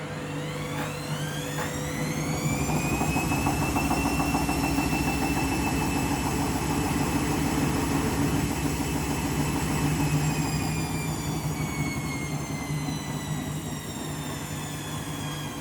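Candy washing machine's drum motor whining as the drum spins up, its pitch rising over the first few seconds, holding steady for several seconds, then falling slowly as the drum slows again near the end.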